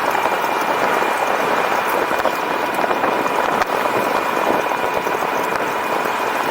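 Steady rushing noise of an e-bike in motion, wind and tyre noise on the camera, with two thin steady high tones running through it.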